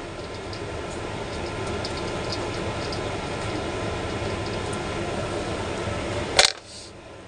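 Steady mechanical hum with faint ticks, then a sharp loud click about six and a half seconds in, after which the hum falls much quieter.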